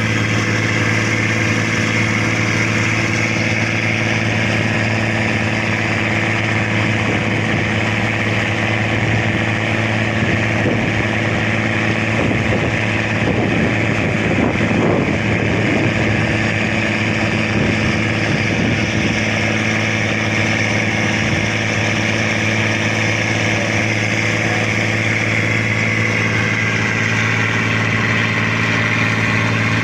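Fishing boat engine running steadily with a constant low hum. A rougher, rattling engine sound swells in the middle and then fades.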